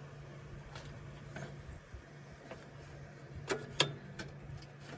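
Wrench clicking against a fuel-line fitting on the fuel pump of a 1953 Chevy truck: scattered light metal clicks, with two sharper clinks about three and a half seconds in, over a faint steady hum.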